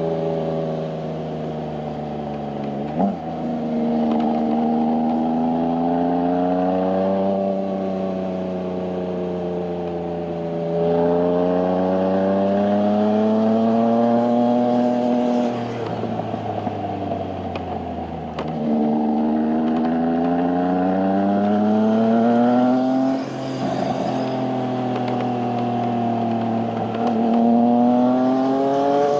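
Triumph sport motorcycle engine heard from on board the bike, rising in pitch as it accelerates and dropping back as it eases off, about four times over.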